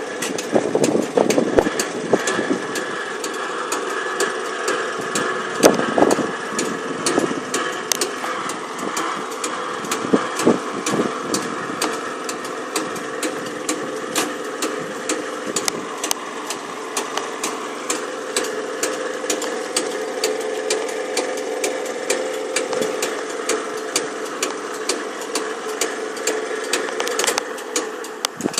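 The two FS 64 level-crossing warning bells ring continuously, several sharp strikes a second with a steady metallic ring under them. They start abruptly and stop near the end.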